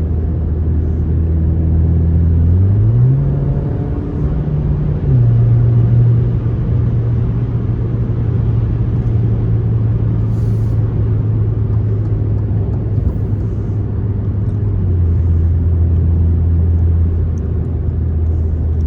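Alfa Romeo Giulia's 2.0-litre turbo four-cylinder through an aftermarket Madness Monza exhaust, heard from inside the cabin while driving: a low, deep drone. The revs climb about three seconds in, drop back with an upshift near five seconds, hold steady cruising, then ease lower about fifteen seconds in.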